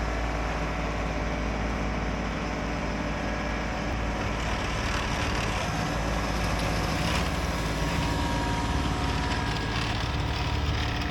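Kubota LX2610 compact tractor's three-cylinder diesel engine running steadily under load, driving its LX2963 snowblower as it throws light, fluffy snow, with a steady rushing noise over the engine.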